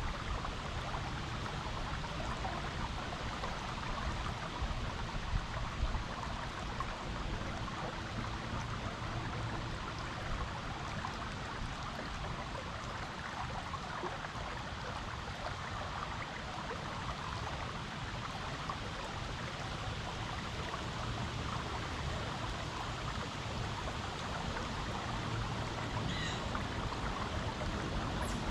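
Stream water flowing, a steady rush without pause.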